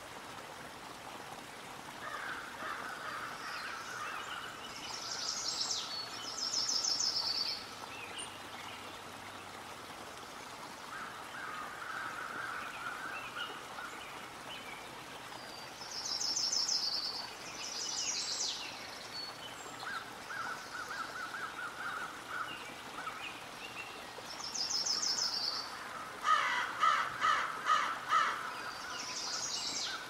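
Several songbirds singing in turn, with high thin trills and lower trilled phrases recurring every few seconds over a steady background hiss; near the end a louder call repeats about five times in quick succession.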